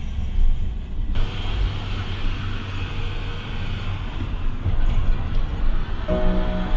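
A car driving on the road: a steady low rumble of engine and tyres, with a brighter hiss joining about a second in.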